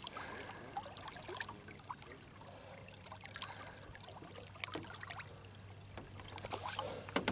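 Faint water trickling and lapping, with small scattered clicks and knocks and a sharper clatter of knocks near the end.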